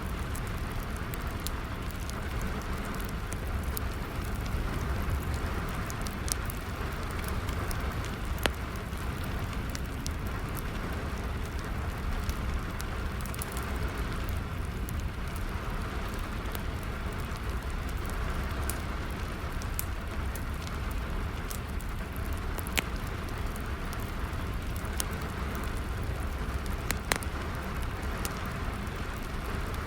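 Steady rain with a wood fire crackling, its pops coming as scattered sharp clicks over the constant hiss and low rumble of the rain.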